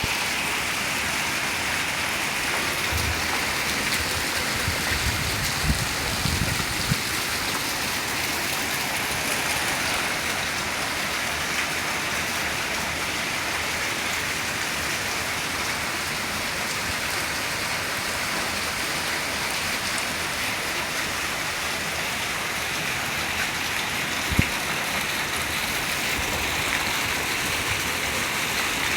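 Steady rain falling, a continuous even hiss. A few soft low thumps come around five to seven seconds in, and a single sharp tap about twenty-four seconds in.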